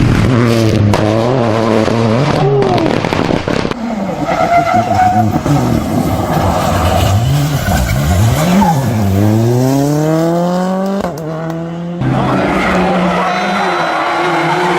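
Turbocharged rally car engines at full throttle, revving up and dropping sharply through gear changes, with a few sharp cracks in the first few seconds. About ten seconds in there is one long rising pull before the note drops.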